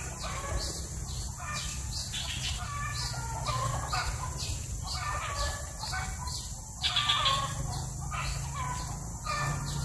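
Baby greater coucal giving repeated short, raspy begging calls, a few a second, with one louder call near the end, over a low steady hum.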